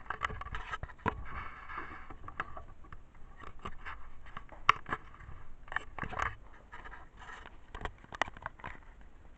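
Irregular scrapes, taps and clicks of close handling noise at uneven intervals, with no engine running.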